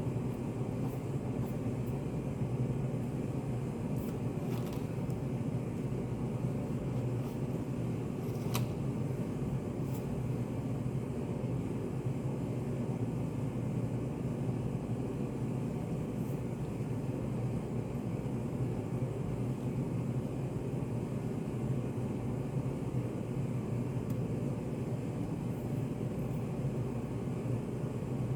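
Study cafe room ambience: a steady low hum with a few faint clicks, and one brighter clink about eight and a half seconds in.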